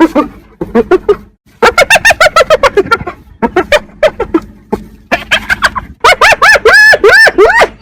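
Spotted hyena giggling, the 'laughing' call: bouts of quick yelping notes that rise and fall in pitch, several a second, with short breaks between bouts. The last bout, from about six seconds in, is the densest and highest-pitched.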